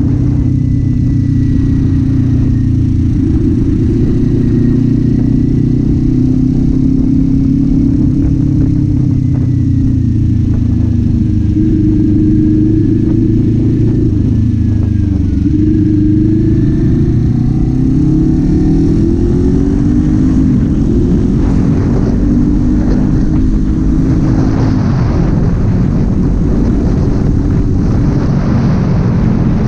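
Kawasaki Z400's parallel-twin engine running on the move; its pitch dips about halfway through, then climbs again as the bike speeds back up, with more wind and road noise later on.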